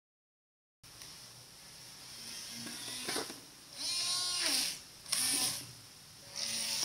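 Small electric motor of a WL Toys 917 RC mini jet boat whining in three short throttle bursts, its pitch dipping and rising again in each, over a hiss that builds before the first burst.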